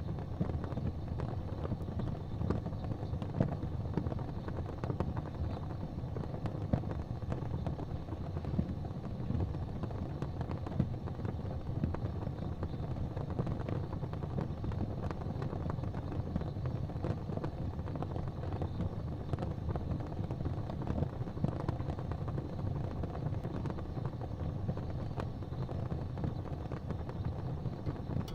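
Wood fire crackling in a fireplace: scattered sharp pops and crackles over a steady low rumble, with a few louder pops.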